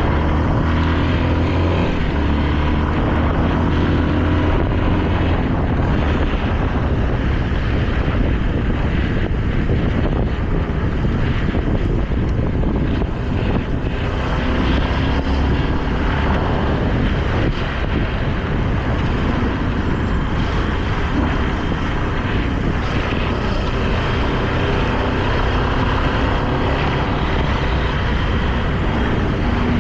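Motorcycle engine running under way, its pitch rising and falling with the throttle, over a steady loud rushing noise.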